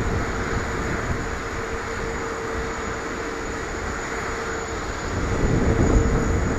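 Jet engines of a Boeing 787-10 airliner running steadily at a distance, with a constant whine over a low rumble, growing a little louder near the end.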